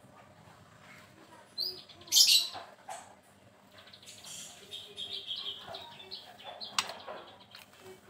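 Songbird chirps and short calls, with a loud harsh high call about two seconds in and a sharp tick near the end.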